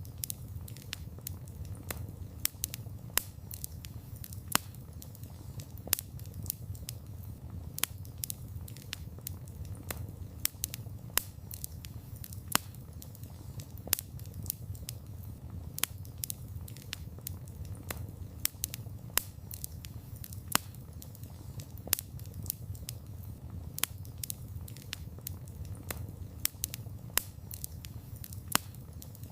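Wood campfire burning: a steady low rumble of flames under constant irregular crackling, with sharper pops every second or two.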